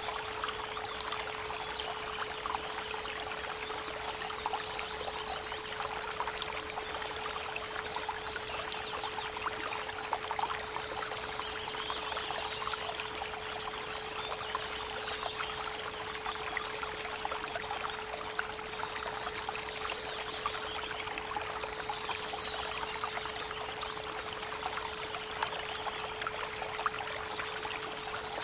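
A steady 432 Hz pure tone held under the rushing of creek water, with birds giving short high trills three times, about a second in, midway and near the end, and a few fainter chirps between.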